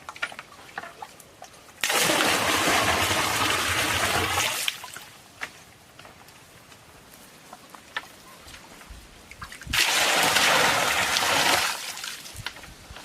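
Water pouring or splashing in two bursts of two to three seconds each, with small clicks and knocks between them.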